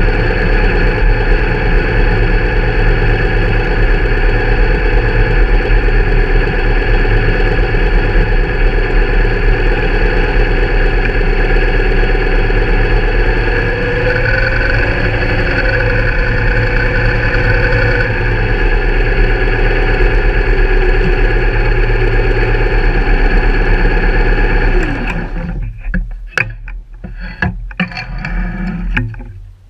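Motorcycle engine running at low speed, with a brief rise in revs partway through. About 25 seconds in the engine is switched off, leaving a few separate clicks and knocks.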